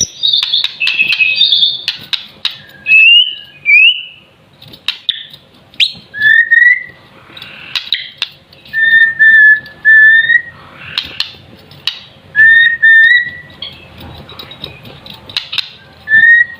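Young white-rumped shama, still in juvenile plumage, singing loudly: fast varied warbling for the first few seconds, then phrases of short, clear whistled notes repeated over and over, with scattered sharp clicks between them.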